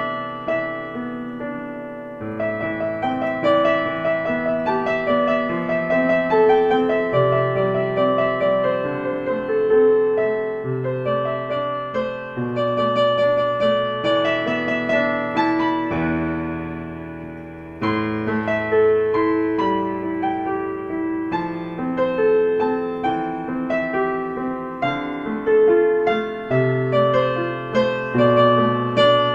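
Slow, gentle piano music: soft chords and melody notes over held bass notes, with one chord left to ring and fade about two-thirds of the way through before the playing resumes.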